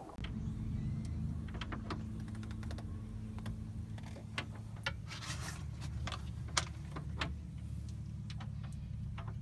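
Boat engine running with a steady low drone, with scattered light clicks and taps over it.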